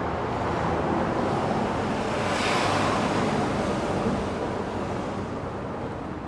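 Steady outdoor rushing noise that swells and brightens about two seconds in, then slowly fades.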